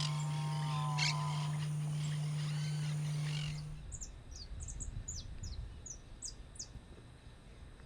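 Birds calling, in two recordings joined by a cut about three and a half seconds in. The first has repeated arching calls over a steady low hum; the second is quieter, with short, sharp, high falling notes.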